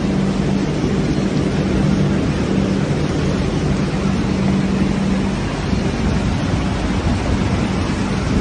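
Suburban electric train moving slowly through floodwater, giving a low steady hum that stops a little past halfway, under a constant rushing noise of rain and water.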